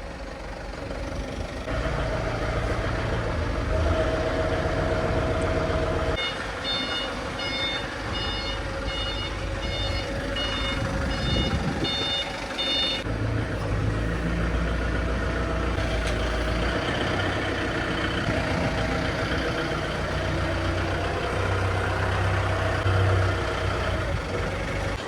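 A vehicle engine runs steadily while a reversing alarm beeps in an even series, about two beeps a second, from about six seconds in to about thirteen seconds in.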